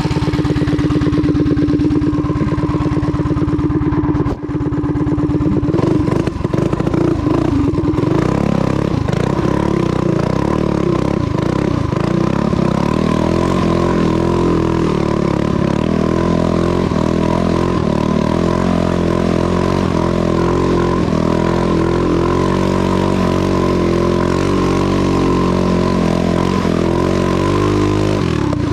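Custom mini bike's small single-cylinder engine, fitted with a Wildcat WC22 round-slide carburetor, running loudly. From about eight seconds in its speed keeps rising and falling, then it settles back to a steady run near the end.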